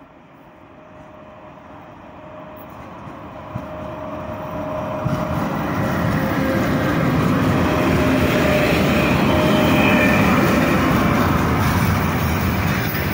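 A 3ES5K 'Ermak' three-section electric freight locomotive hauling a container train approaches and passes close by. Its noise builds over the first six seconds or so, with a thin steady whine, then becomes a steady loud rumble of container wagons rolling past.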